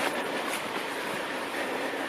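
Footsteps on a dirt and gravel forest trail, one crunching step about every second, over a steady rushing background noise.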